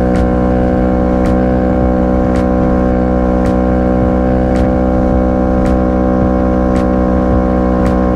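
Motorcycle engine running at a steady cruising speed on the highway, a dense, even drone that holds one pitch, with faint light ticks about once a second.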